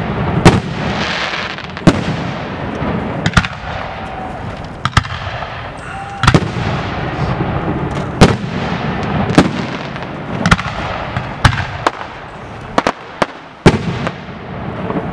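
Aerial firework shells bursting overhead: about a dozen sharp bangs roughly a second apart, coming closer together near the end, over a steady wash of sound from the display.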